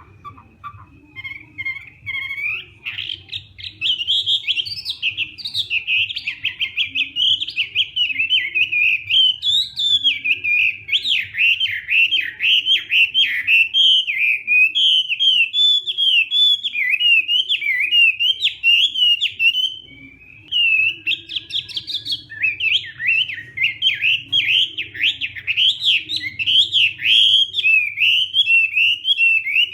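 Chinese hwamei singing a loud, rapid, continuous stream of varied whistled phrases. The song builds up over the first few seconds and breaks off briefly about twenty seconds in before going on, over a faint low hum.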